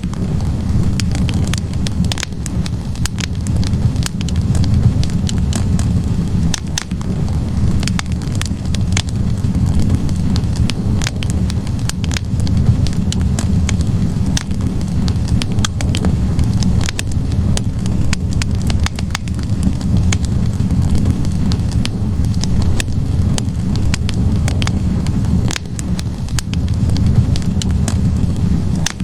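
Wood fire burning in a fireplace: logs crackling and popping with many sharp, irregular snaps over a steady low rumble of the flames.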